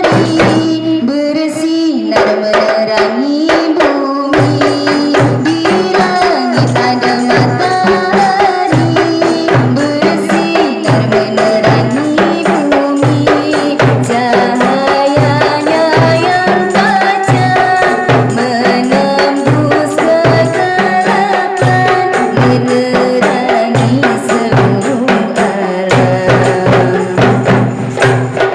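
Qasidah ensemble playing an instrumental passage: a melody line over a steady beat of hand drums and tambourine jingles.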